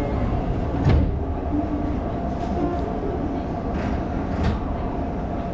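Toyo Rapid Railway 2000 series electric train running along the line, heard from the leading car: a steady rumble of wheels on rail, with a few short knocks as the wheels pass over rail joints. The loudest knock comes about a second in.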